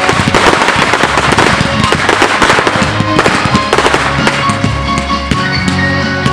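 Fireworks bursting and crackling in rapid clusters, dense for the first few seconds and thinning out toward the end, over loud music.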